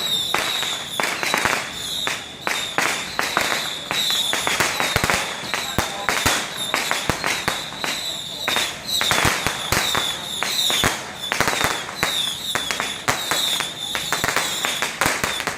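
Firecrackers going off in a long run of rapid, irregular sharp bangs, with a steady high tone underneath.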